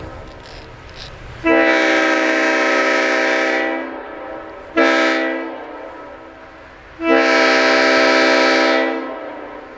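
Leslie S-5T five-chime air horn sounding a chord in three blasts, long, short, long, in the rhythm that ends a grade-crossing signal.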